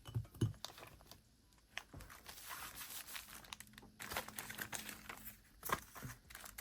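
Paper rustling and crinkling as craft papers and envelopes are handled, with a few light taps at the start and a short lull about a second in.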